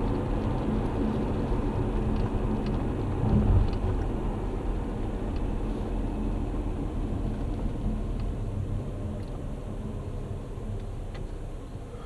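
Car driving, heard from inside the cabin: a steady low rumble of engine and road noise, with a brief louder bump about three and a half seconds in. It grows quieter toward the end.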